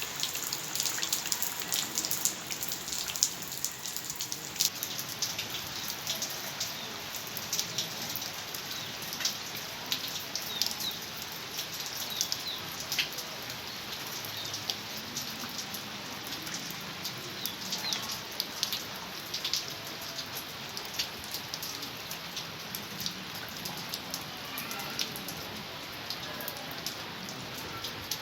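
Heavy rain falling steadily, with the sharp taps of individual drops striking close by. The drop-strikes are more frequent and louder in the first half, then the rain settles into an even wash.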